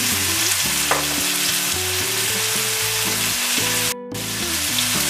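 Ground beef and diced onions sizzling in oil in a hot nonstick pan, an even frying hiss that breaks off for a moment about four seconds in.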